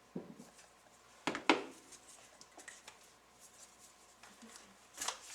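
Parts and tools being handled on a workbench during the orbital attachment's teardown: a few short knocks and clatters, the loudest about a second and a half in, and another near the end.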